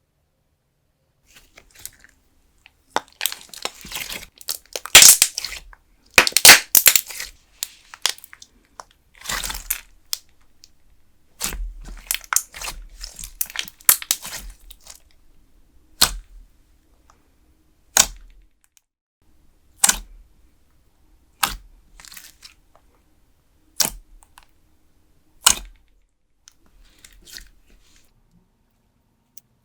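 Putty-style clear slime squeezed and pulled by hand, crackling and tearing in quick irregular bursts. In the second half these give way to single sharp pops about every two seconds, as trapped air bursts from the slime.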